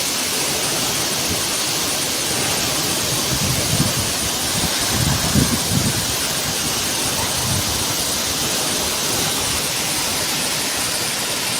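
Torrential rain pouring down as a loud, steady hiss, with a few brief low rumbles about halfway through.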